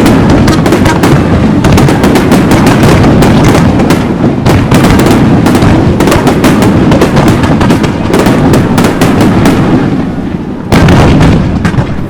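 Fireworks going off in a rapid, unbroken barrage of crackling bursts, with a fresh loud burst near the end.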